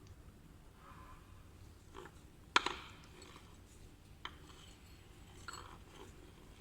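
A few scattered sharp clinks and knocks, the loudest about two and a half seconds in, with a short ring after it.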